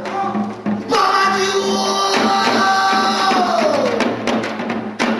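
Pansori singing with janggu accompaniment: the voice holds one long note that slides down in pitch, then a few sharp strokes on the janggu (Korean hourglass drum) near the end.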